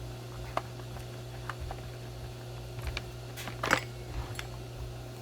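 Scattered light clicks and knocks of chainsaw parts being handled as the side cover comes off, the sharpest knock about three and a half seconds in, over a steady low hum.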